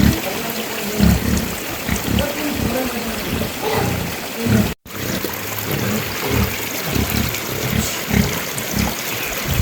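Water trickling and splashing steadily, cut off by a brief dropout a little under halfway through.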